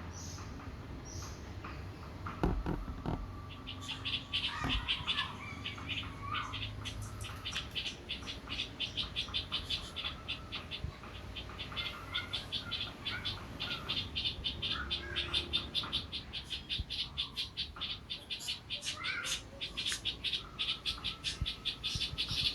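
A fast, even train of high-pitched calls, about five a second, starts a few seconds in and keeps going. Now and then short bird chirps sound under it. Near the start there are a few knocks.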